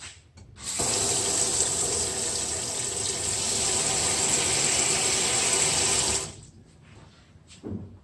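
Water running from a tap into a sink: turned on about a second in, running steadily for about five seconds, then shut off. A light knock follows near the end.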